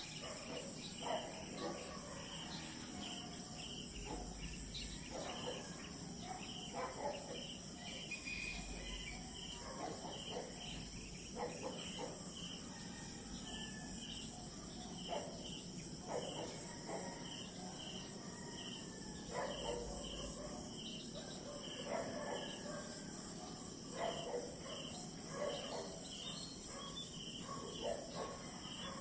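A chorus of crickets and other insects: a steady high trill with a regular chirp about one and a half times a second. Short, lower calls break in every second or two.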